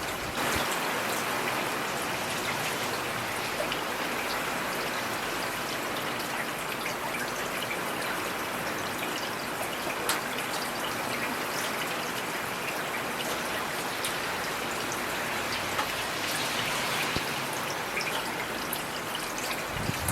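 Heavy rain falling steadily: a dense, even hiss with scattered sharper taps of individual drops.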